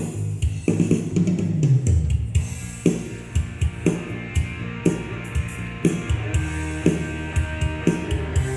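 Multitrack playback of a live band's soundcheck: a drum kit with kick drum and cymbals keeping a steady beat over bass guitar, with the electric guitar channel being brought up in the mix.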